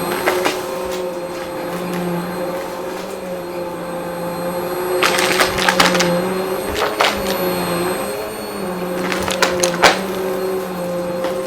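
Vacuum cleaner running with a steady motor hum. From about five seconds in, clusters of sharp crackling clicks are heard as crunchy debris is sucked up.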